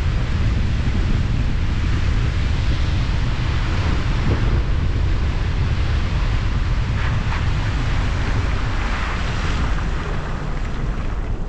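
Steady, loud rushing noise with heavy wind rumble on the microphone.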